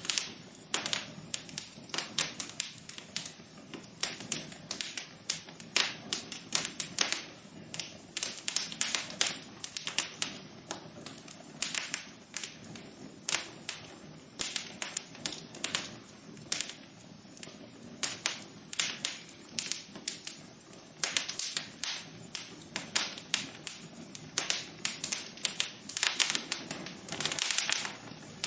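Wood fire in a fireplace crackling, with dense irregular snaps and pops several times a second over a soft low hiss.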